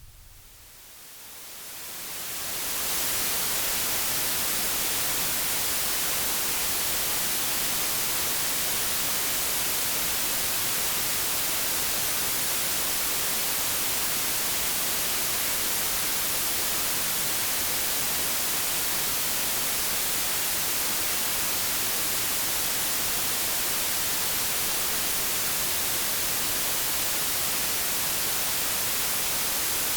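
Steady white-noise static, a dense even hiss strongest in the highs, fading in over the first three seconds and then holding constant.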